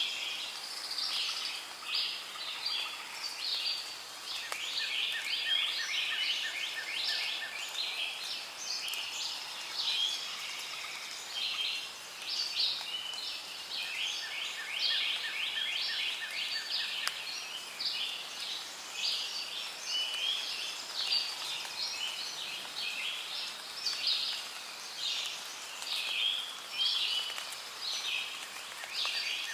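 Rainforest ambience: a dense, continuous chorus of chirping bird calls, with a lower, evenly pulsed trill that comes in a few times.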